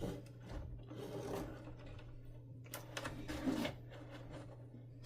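Faint clicks and rubbing from wires and small plastic parts being handled on a workbench, over a steady low hum.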